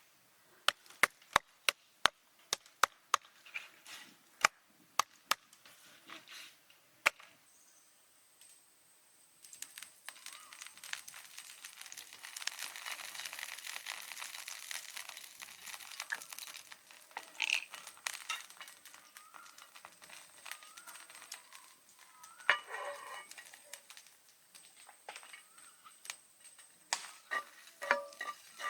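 A knife chopping on a cutting board: a run of sharp knocks over the first seven seconds. Then several seconds of hissing, and a few short clinks of metal cookware near the end.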